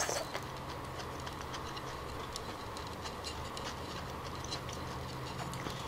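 Close-miked chewing of a coconut palm weevil larva (đuông dừa): soft, wet mouth clicks at an irregular pace, with a sharper click at the very start, over a faint low steady hum.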